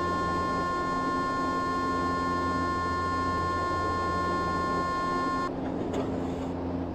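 A steady, buzzy electronic tone inside a São Paulo Metro train car, over the car's low hum, cutting off suddenly about five and a half seconds in; a brief knock follows about a second later.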